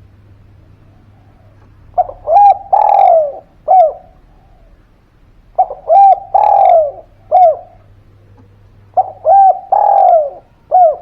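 Spotted dove (derkuku) cooing loudly. It gives three repeated call phrases a few seconds apart, each made of two or three short coos and one longer, falling coo.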